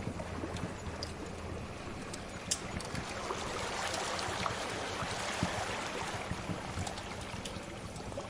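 Sea waves washing in, one swell building to a peak midway and easing off, over a fire crackling with scattered sharp pops.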